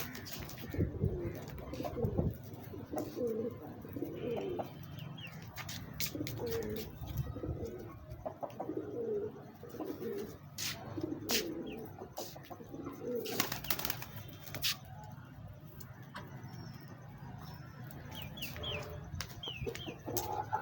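Birds cooing in repeated short, low phrases, with scattered sharp clicks and knocks.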